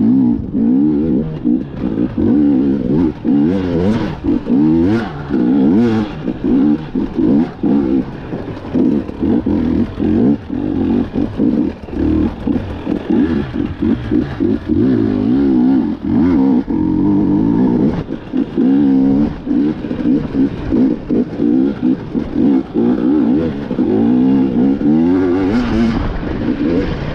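KTM 250 EXC two-stroke enduro engine being ridden hard, its pitch rising and falling as the throttle is opened and chopped again and again, with frequent brief dips between bursts.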